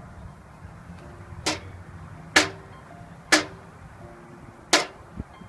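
Four sharp hammer blows on metal, about one a second, each leaving a brief metallic ring, as in a worker driving railroad spikes.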